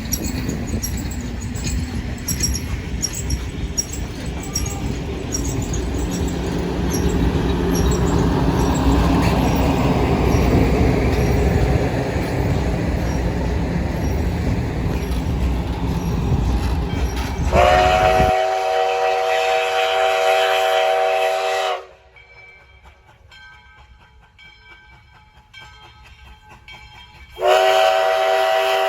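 Steady low rumbling noise from a moving train or vehicle, then a steam locomotive's chime whistle. The whistle sounds several pitches at once in a long blast starting about eighteen seconds in and cutting off suddenly. After a few seconds of quiet it sounds again near the end.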